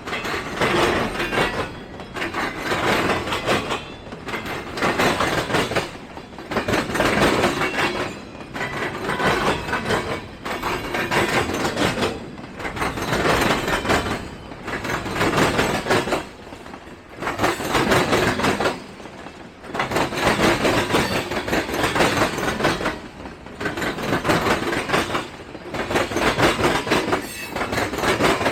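Freight train rolling past, its cars' wheels clattering over the rail joints in regular surges about every two seconds.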